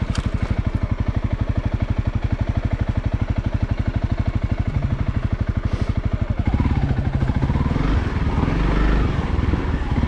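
Honda CRF300L's single-cylinder engine idling with an even beat, then opening up about six and a half seconds in, louder and rougher as the bike pulls away under throttle.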